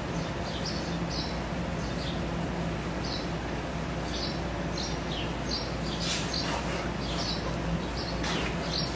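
Small birds chirping, short high chirps about twice a second, over a steady low hum.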